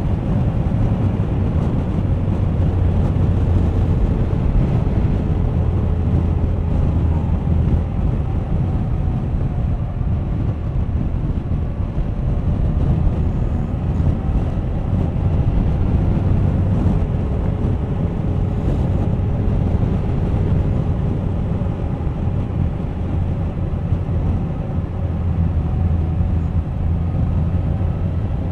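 Suzuki GSX1250FA's inline-four engine running steadily at cruising speed, with wind and road noise from riding; the engine note drifts slightly in pitch as speed changes.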